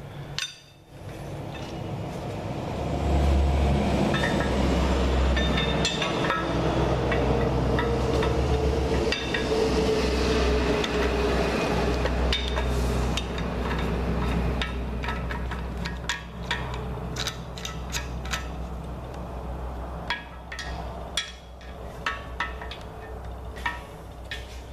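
Scattered metallic clinks and taps from handling the steel cam bearing installer tool and its pieces, over a steady low rumble that sets in a few seconds in and fades in the last few seconds.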